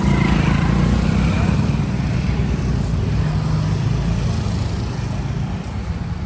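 Motor vehicle engine running, a loud low rumble whose pitch shifts up and down, with road and wind noise.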